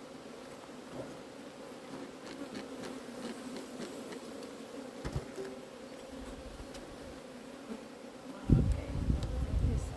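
Honeybees from an open hive buzzing in a steady, even hum. About eight and a half seconds in, a loud low rumble comes in over it.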